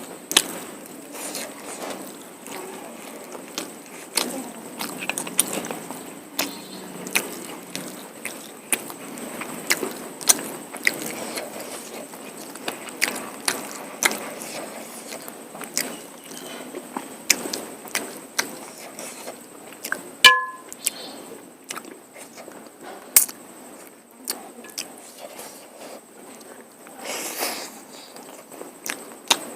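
Close-miked eating of mutton curry and polao rice: wet chewing and lip smacks with frequent sharp little clicks. A brief pitched beep sounds about two-thirds of the way through.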